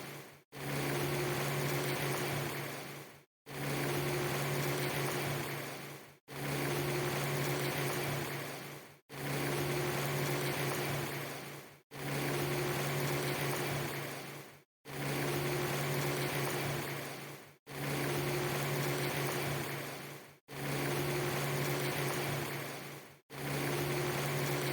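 A short ambience loop of steady rushing noise with a low hum underneath, repeating about every three seconds. Each pass fades down and drops to a brief gap of silence before starting again abruptly.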